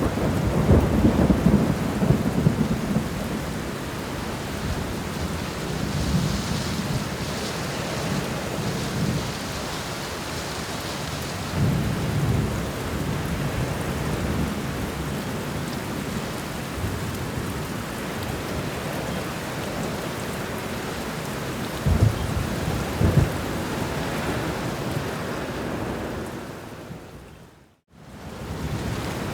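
Steady heavy rain with low thunder rumbling several times. Near the end the sound fades out to silence for a moment and then returns.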